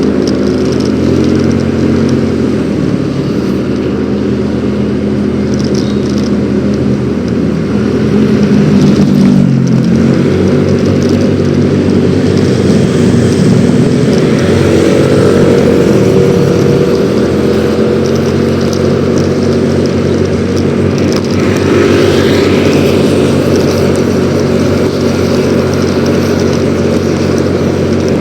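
Yamaha X-Ride 113cc scooter's single-cylinder engine running while riding in traffic. The engine note drops a little under halfway through and picks up again a few seconds later.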